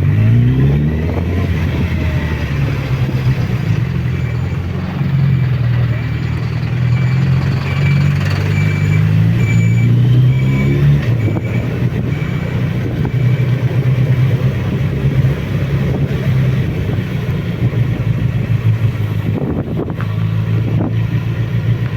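Suzuki Bandit motorcycle engine running steadily on a mountain descent, its revs climbing briefly about a second in and again about ten seconds in.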